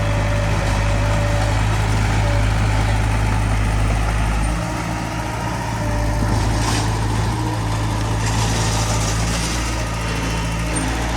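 Heavy diesel engine of earthmoving machinery running steadily with a deep hum. Brief hissy, rattling stretches come in a little past halfway and again later.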